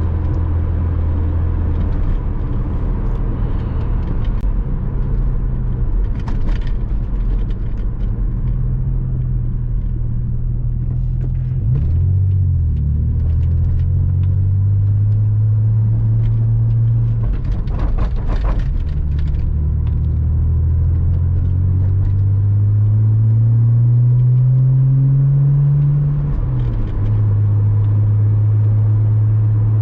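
Porsche Boxster 986's flat-six engine driving along. The engine note climbs slowly as it pulls and drops sharply at two gear changes.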